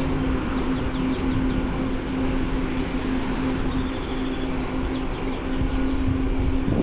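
Riding a bicycle: wind rumble on the microphone and rolling tyre noise under a steady hum, with birds chirping a few times.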